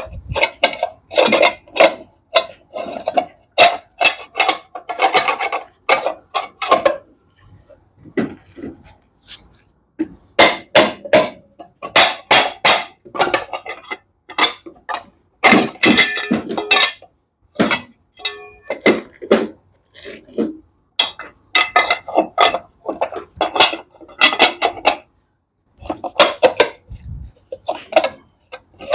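Metal tools and motorcycle parts clinking and knocking as a front wheel is fitted: irregular sharp clanks and clicks with short ringing, coming in clusters with brief pauses.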